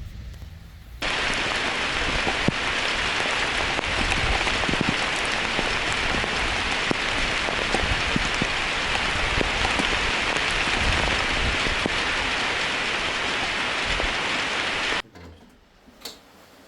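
Heavy downpour: a dense, steady hiss of rain pouring onto surfaces. It starts suddenly about a second in and cuts off abruptly near the end.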